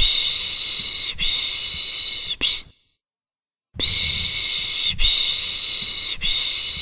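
A person shushing a baby with the Turkish 'piş piş' sound: long hissing strokes of about a second each, in groups of two long and one short, with about a second's pause between groups.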